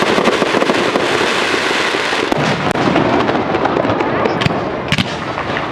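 Aerial fireworks crackling densely and continuously, with scattered sharp pops and a couple of louder bangs near the end.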